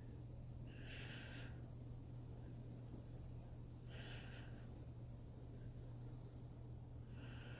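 Faint rubbing of an acetone-soaked cotton pad across a MacBook Pro Retina screen's coating, over a steady low hum. Three short, louder swishes come about three seconds apart.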